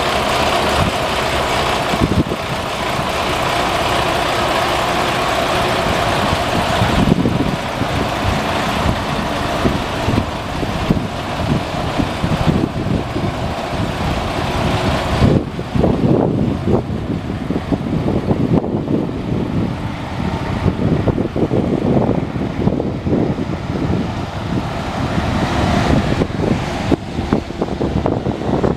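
Diesel of a Freightliner Cascadia sleeper truck running at idle, a steady hum that turns more uneven and rumbly about halfway through.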